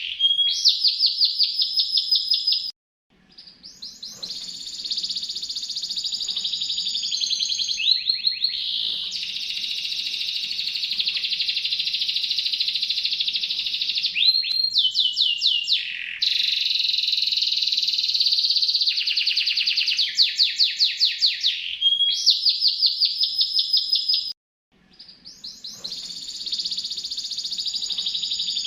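Domestic canary singing: long, fast trills and runs of rapidly repeated high notes. The song breaks off briefly about three seconds in and again near the end.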